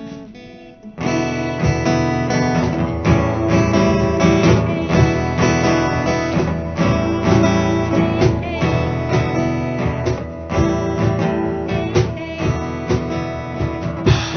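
Acoustic guitar strummed in a steady rhythm, coming in fully about a second in: the instrumental intro of a song before the voice enters.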